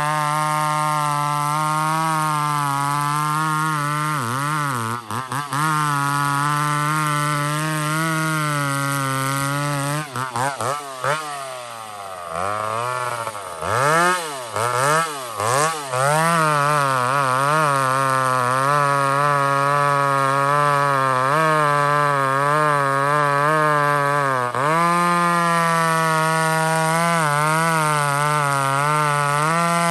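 McCulloch 850 two-stroke chainsaw, fitted with a modified exhaust and its carburettor set rich, cutting through a big log under load, its pitch wavering as it bogs and recovers in the wood. About a third of the way in it is revved up and down in several short blips before settling back into a steady cut.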